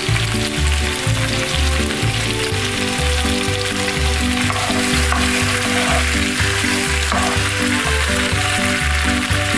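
Tomato wedges and onion sizzling in hot oil in a frying pan, stirred with a spatula near the end. Background music with a steady beat plays over it.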